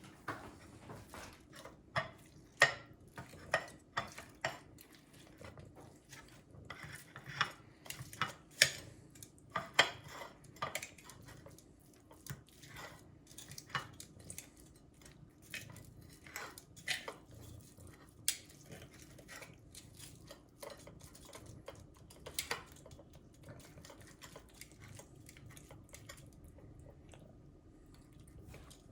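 Irregular clinks and taps against a dish, loudest and most frequent in the first ten seconds or so, thinning out near the end.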